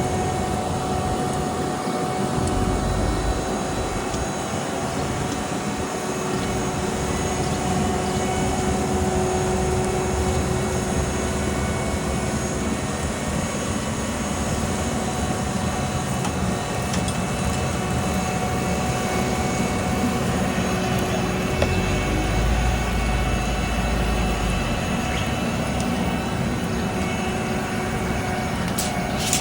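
Heavy diesel road-paving machinery running steadily, a continuous engine rumble with a steady whine over it.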